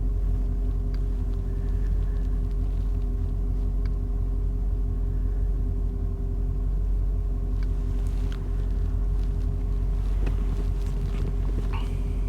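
A pickup truck driving, heard inside the cab: a steady low rumble of engine and road with an even, unchanging hum.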